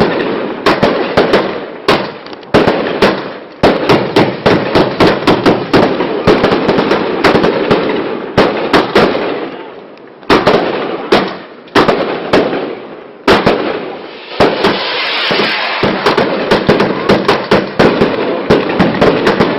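Two Klasek Brocade War 88-shot firework cakes firing, a rapid, irregular run of sharp bangs, several a second, with short lulls about ten and thirteen seconds in.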